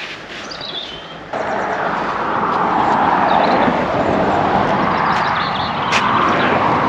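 Pressure washer jet cutting in abruptly about a second in and spraying steadily, an even hiss of water. Birds chirp faintly before it starts.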